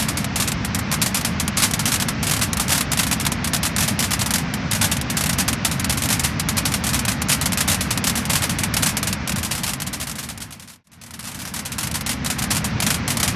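Wood-burning fire crackling and popping, a dense run of small snaps over a steady rush. The sound fades out almost to nothing about eleven seconds in, then fades straight back up.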